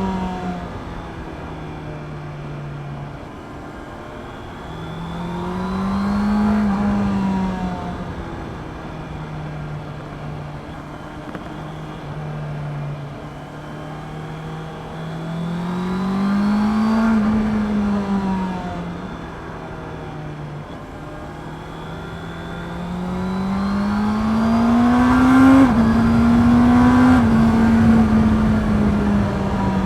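Honda CB650R's inline-four engine through its stock exhaust, ridden at a steady cruise. Three times the revs climb and fall back as it accelerates and eases off. In the last swell the pitch drops in a quick step, an upshift.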